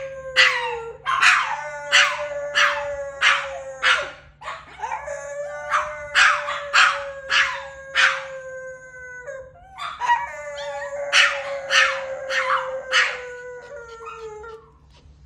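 Pet dog howling in long, steady drawn-out howls, four of them, each sagging slightly in pitch as it ends. Short sharp yips sound over the howls about once or twice a second. It goes quiet near the end.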